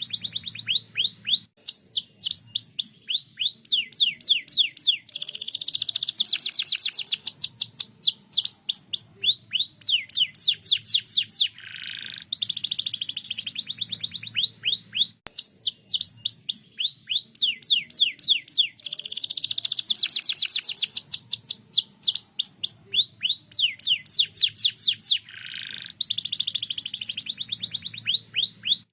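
Domestic canary singing a long, loud song of fast trills made of rapid downward-sweeping notes, broken by short buzzy rolls. The same song sequence repeats about every 13 seconds, as in a looped recording.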